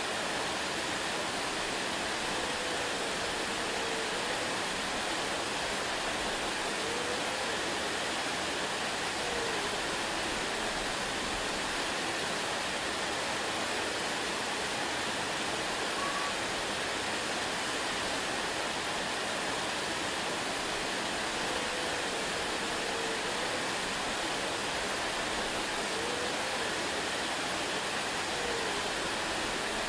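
Waterfall: a steady, even rush of falling water with no change in level. A few faint short gliding tones sit underneath and recur about every 19 seconds.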